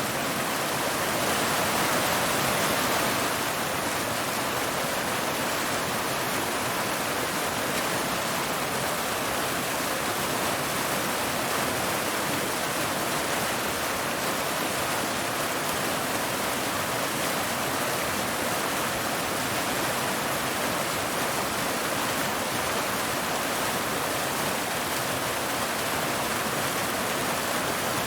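Waterfall: water falling and splashing over rocks in a steady, even rush.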